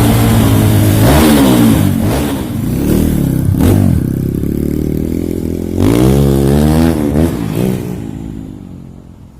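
Kawasaki KLX dirt bike's single-cylinder engine revving in repeated throttle blips, heard through an aftermarket racing exhaust with a swapped silencer insert. The sound fades out near the end.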